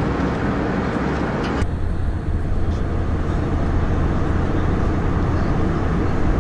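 Steady cabin noise of an Airbus A321 airliner, a rushing hiss over a deep rumble. About a second and a half in it changes abruptly: the hiss drops away and a stronger, deeper rumble remains.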